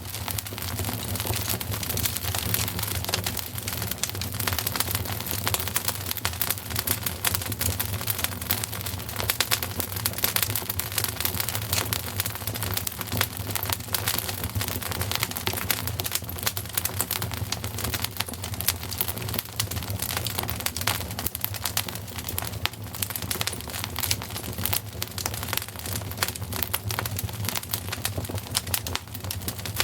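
Wood fire crackling steadily: dense, rapid pops and snaps over a constant hiss and a low rumble.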